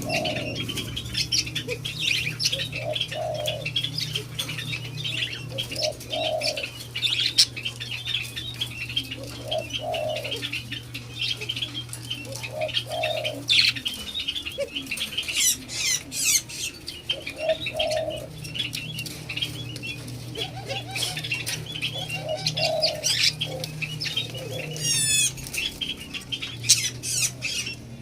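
White-eared brown doves feeding from a hand: rapid pecking and wing flutters, with short low coos every second or two.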